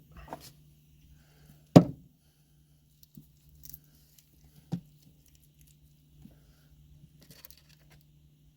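Breakfast preparation: a few sharp knocks and clicks of utensils and food handling, the loudest about two seconds in and another near five seconds, with small scrapes and rustles between, over a faint steady low hum.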